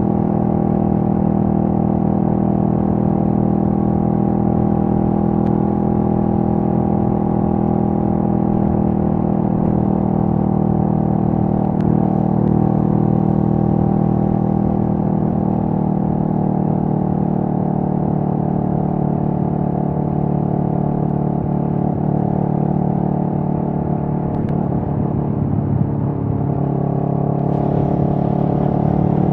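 2023 CFMoto 650NK's parallel-twin engine running at a fairly steady speed. Its pitch sags slightly a little past two-thirds of the way through, then picks up again near the end.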